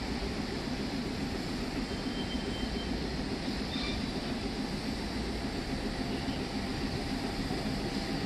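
A train's steady rumble and hiss, with a couple of faint, brief high squeaks a few seconds in.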